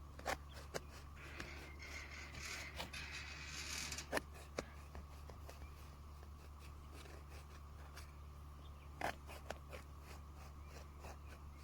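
Scattered sharp clicks and knocks, with a scraping, rustling sound from about one to four seconds in, over a steady low hum.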